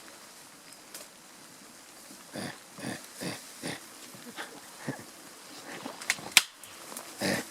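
Mountain gorilla giving a string of short, low grunts, with a sharp crack about six seconds in.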